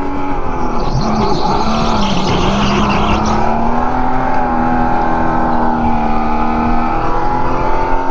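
Go-kart motor running with a steady whine that rises and falls gently with speed. Tyres skid and squeal for a couple of seconds about a second in, as the kart slides through a turn.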